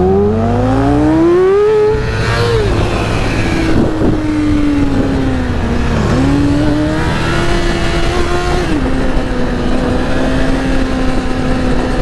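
2008 Yamaha R6 sport bike's inline-four engine under way: it revs up for about two seconds, drops in pitch at a gear change, then holds a steady pitch. It dips and picks back up around six seconds in, and settles to a lower steady pitch at another gear change near nine seconds.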